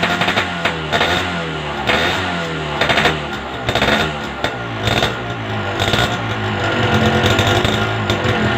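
Motorcycle engine breathing through an Altech C20 aftermarket exhaust, the throttle blipped several times so the revs rise and fall with sharp cracks at each blip, then settling to a steady idle near the end.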